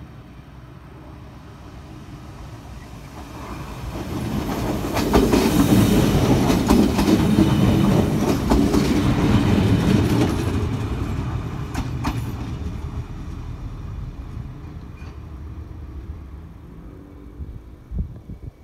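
Regional railcar pulling into a station platform. Its running noise swells to a peak as it passes close by, with wheels clicking over the rail joints, then fades as it moves on along the platform.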